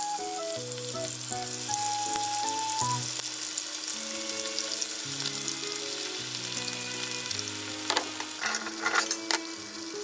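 Chicken thigh pieces shallow-frying in oil in a frying pan, with a steady sizzle and a few sharp clicks about eight to nine seconds in. Soft background music plays along.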